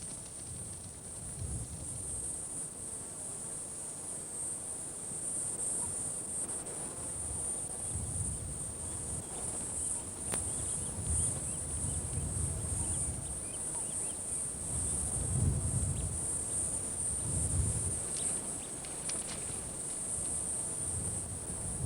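Steady high-pitched insect chirring, with occasional low dull thuds underneath.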